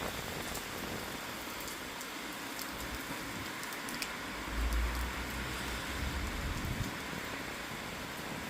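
Steady rain falling, with individual drops ticking sharply now and then. About halfway through, a deep low rumble swells for a couple of seconds and fades.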